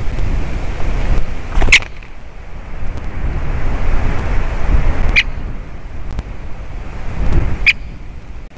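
Wind buffeting the microphone as a steady low rumble, with three short, sharp bird calls spaced a few seconds apart.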